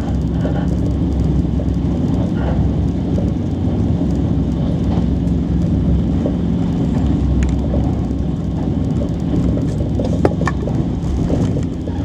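Alfa Pendular (Pendolino) tilting train running, a steady low rumble with a few light clicks.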